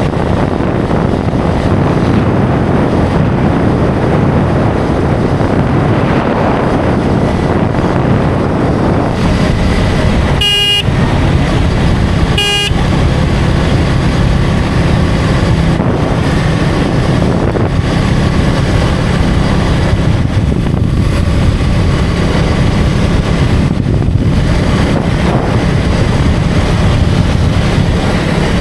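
KTM 250 Duke's single-cylinder engine running steadily at road speed, with wind rushing over the microphone. Two short horn toots sound about ten and twelve seconds in.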